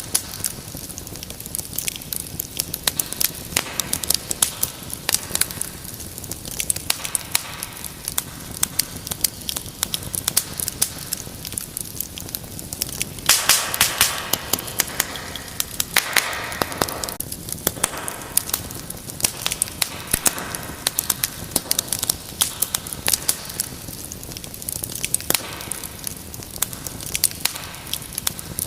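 Wood fire crackling in a fireplace: many irregular sharp pops and snaps over a steady hiss of burning, with a louder hissing flare-up about halfway through.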